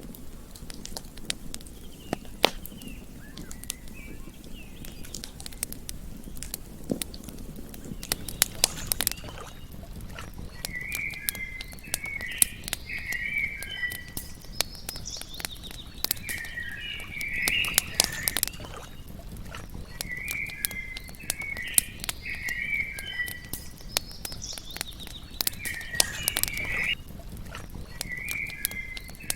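Campfire crackling with sharp pops over a low steady hiss. From about a third of the way in, a short chirping animal call repeats every few seconds.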